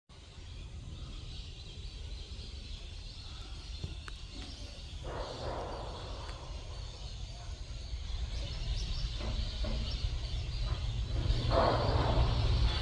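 A flock of migratory waterbirds calling, a steady chatter with two louder bursts of calls, about five seconds in and near the end, over a low rumble that grows towards the end.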